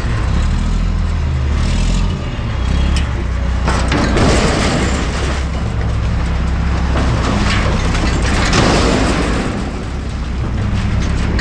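Front-loader garbage truck's engine running hard, with several loud crashes and rattling as refuse tumbles into the hopper.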